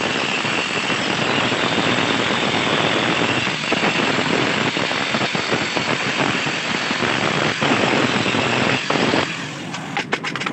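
Angle grinder grinding metal: a steady high whine over a loud gritty hiss that stops abruptly about nine seconds in, followed by a few light metallic taps.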